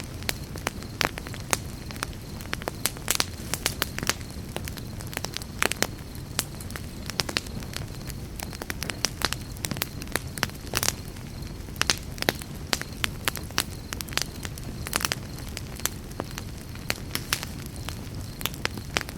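Wood campfire burning and crackling, with irregular sharp pops and snaps, several a second, over a steady low rumble of the flames.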